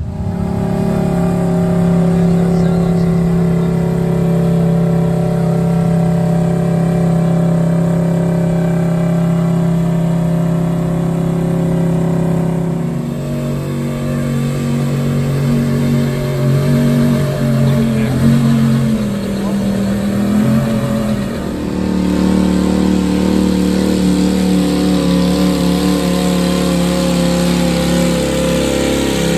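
A pulling truck's engine running hard at high revs under load, loud and steady. About halfway through its pitch shifts, then rises and wavers before dropping sharply about two-thirds of the way through and settling steady again.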